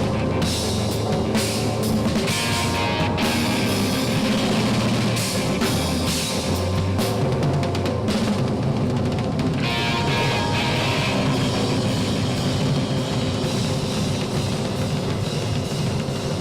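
Instrumental rock band playing live: drum kit with cymbals and bass drum under sustained low bass and guitar notes.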